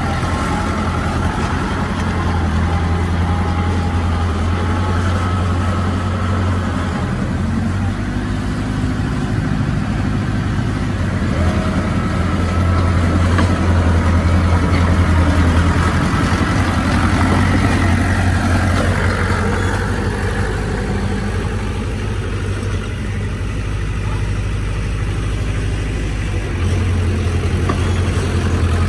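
Heavy diesel earthmoving machinery running steadily with a deep low hum, growing louder for a few seconds about halfway through, with a brief rising whine a little later.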